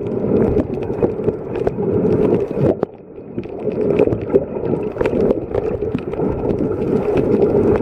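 Muffled water sloshing and bubbling, with many small clicks and knocks scattered through it, as heard by a camera underwater while snorkeling.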